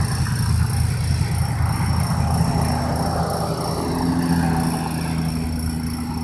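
Electric RC trucks' motors and gearboxes whining under load in a tug-of-war pull. The whine slides down in pitch over the first few seconds and then climbs again, over a steady low hum.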